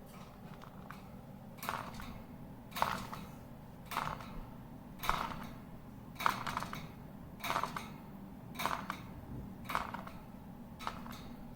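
Cockatiel giving short, sharp calls, one about every second, about nine in all.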